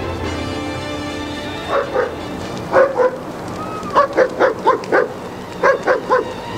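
A dog barking in quick bunches of two or three, starting about two seconds in, over background music.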